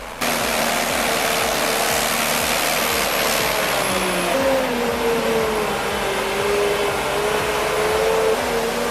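A heavy machine's engine running steadily, with a whine that wavers up and down in pitch. It starts abruptly just after the opening moment.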